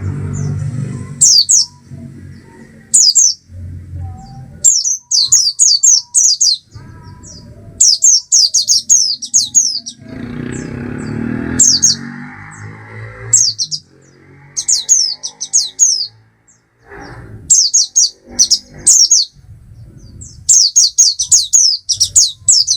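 Oriental white-eye singing: rapid phrases of high, thin, downward-slurred notes, several to a burst, repeated over and over with short gaps.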